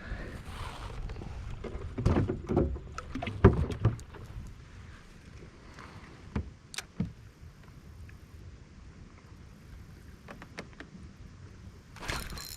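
Knocks and thumps inside a kayak as a fish is handled and unhooked, over low wind rumble on the microphone that fades after about four seconds; then a quieter stretch of scattered small clicks.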